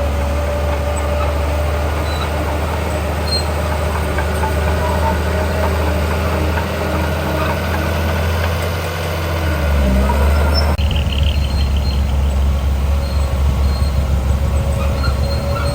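Heavy diesel earthmoving machinery running under work with a steady low engine sound. About eleven seconds in the sound changes abruptly and becomes a little louder and more uneven.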